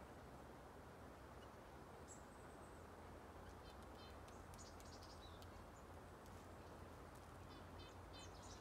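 Faint birdsong: short high chirps in quick runs of several notes, twice, and a brief whistle, over a quiet, steady outdoor background.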